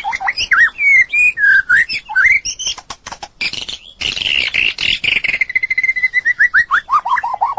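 White-rumped shama singing: a varied run of loud whistled phrases, a harsh rasping stretch in the middle, then a fast series of repeated notes stepping down in pitch near the end.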